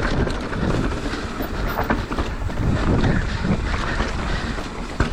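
Mountain bike riding down a trail: wind buffets the microphone in a heavy, uneven rumble, with tyre noise and scattered clicks and rattles from the bike.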